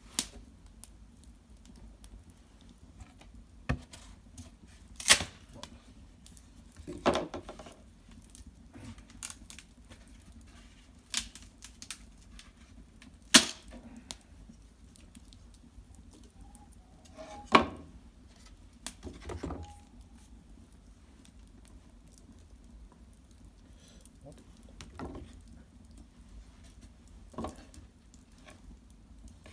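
Cedar-branch fire in a sunken hearth crackling, with sharp pops at irregular moments, a few of them much louder, and a couple of duller knocks of wood shifting.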